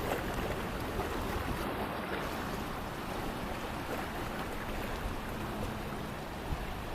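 Steady wind rumbling on the microphone, with sea waves washing on a rocky shore near high tide.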